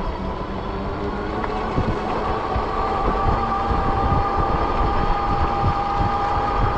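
Fat-tire e-bike riding along, with wind buffeting the microphone. About two seconds in, a steady two-note whine from the bike comes in and holds.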